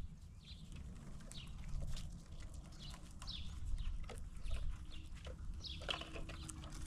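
Birds calling, short high downward-slurred chirps repeated every half second or so, over scattered small clicks and a low steady rumble.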